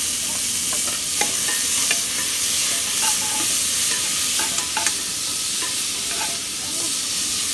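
Tomatoes and spices sizzling in a hot aluminium pot on a portable gas stove, a steady hiss with scattered small clicks and scrapes from stirring.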